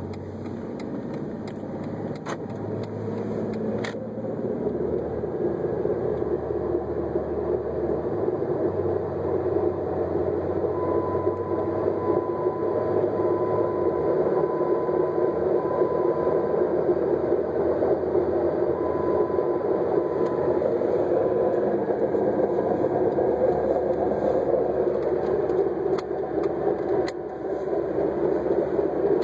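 A 2006 Jeep Grand Cherokee running with a steady rushing noise that builds over the first few seconds and then holds. A faint high whine comes and goes midway, and a few sharp clicks are heard near the start and near the end.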